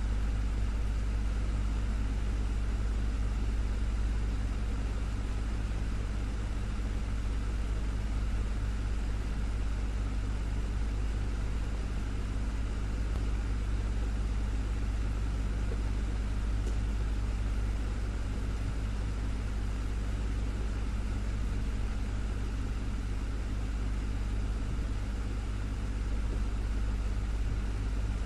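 Desktop fan running steadily: a constant low hum with a soft rush of air over it, unchanging throughout.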